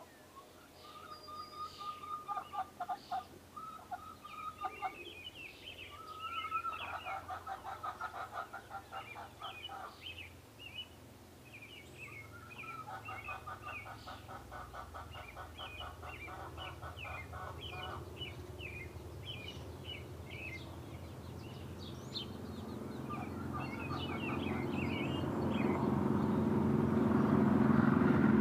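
Small birds chirping at bird feeders, with three spells of a lower, fast rattling call. Near the end a low rumble, like an approaching vehicle, grows steadily louder.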